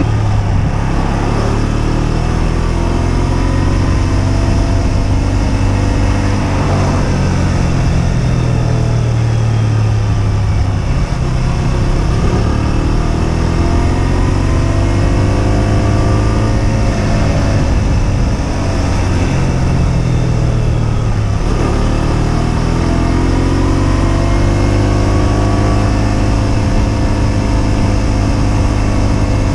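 Husqvarna Svartpilen 125's single-cylinder engine under way, its pitch rising and falling as it accelerates and eases off through the bends, with a couple of quick drops in pitch, over a steady rush of wind and road noise.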